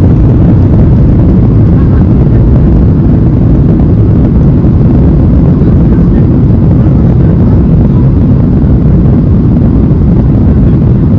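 Steady airliner cabin noise heard from a window seat: a loud, even low rumble of the jet engines and airflow with no distinct events.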